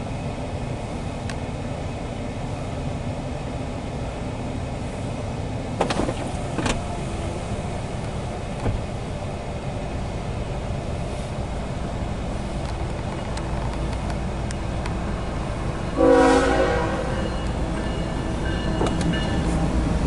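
CSX loaded coal train approaching, its low rumble growing as the lead diesel locomotive nears, heard from inside a car. About sixteen seconds in, the locomotive's horn sounds a loud blast that then tails off into quieter horn tones.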